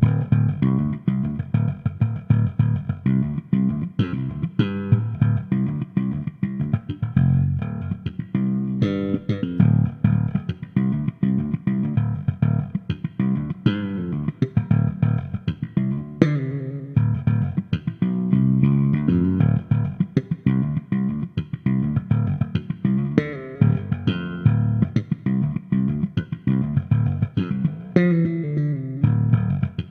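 Fender American Original '60s Jazz Bass played through an amp set flat, close-miked, with added reverb. It plays a busy line of quickly plucked notes, with stepped runs up and down the neck partway through and near the end.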